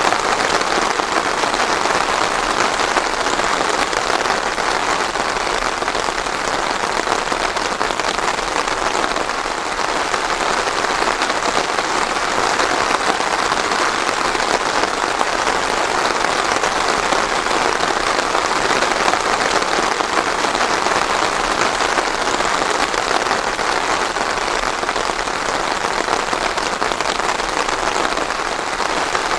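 Steady rain, an even dense patter of drops without thunder.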